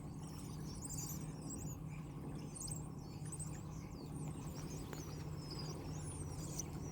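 A large flock of birds chirping and calling, many short high calls overlapping, over the steady low hum of the car they surround.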